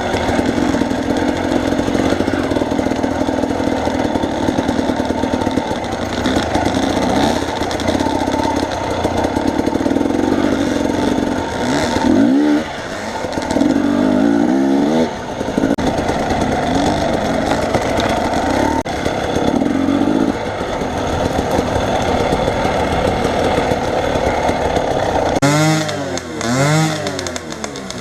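A vehicle engine running on the move. Its pitch rises and falls several times as it speeds up and slows down, most clearly about halfway through and again near the end.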